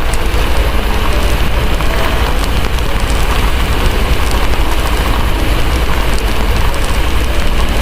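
Steady heavy rain hissing, over a constant low rumble, with faint scattered crackles from a fireplace.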